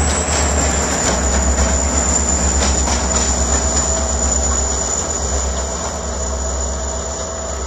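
Diesel locomotive and Russell snow plow train passing and moving away: a steady rumble that slowly fades.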